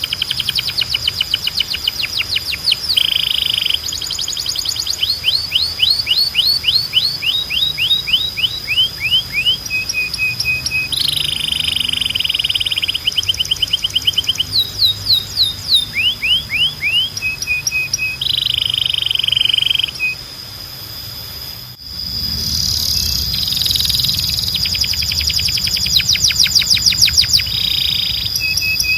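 Belgian canary singing a long, loud song of rapid trills, quick sweeping notes and buzzy rolls. The song drops away briefly about two-thirds of the way through, then starts again.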